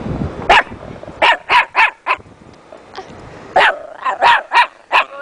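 A dog giving short, sharp barks: a single bark, then a quick run of four, a pause, then another run of about five.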